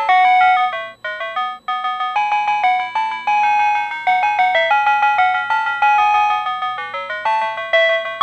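Tobu Railway signal-clear tone from a PATLITE electronic annunciator: a chiming electronic melody of quick, bright notes that tells a one-man train's crew the departure signal has cleared. The tune breaks off briefly twice about a second in.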